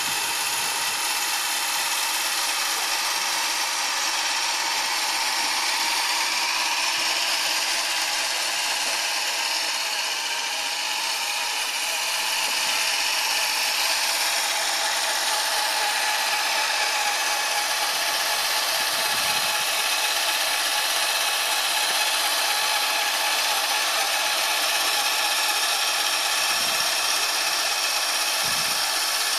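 Tractor engine running steadily on a test drive, a high mechanical whine whose pitch drifts slowly up and down.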